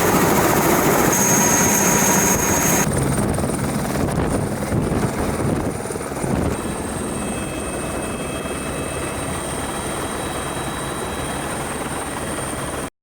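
Helicopter in flight, a steady loud rotor and engine noise. The sound changes abruptly about three seconds in and again about six and a half seconds in, then cuts off suddenly near the end.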